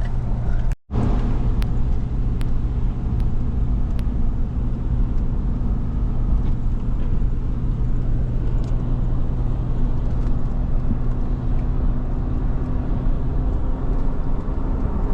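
Steady road and engine hum heard inside a moving car's cabin, with a brief cut-out about a second in. A few faint, evenly spaced ticks sound in the first few seconds.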